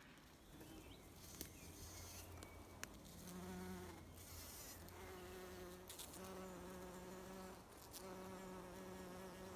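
Bees buzzing around the flowers, faint, in stretches of a second or two with short breaks as they move between blooms, starting about three seconds in.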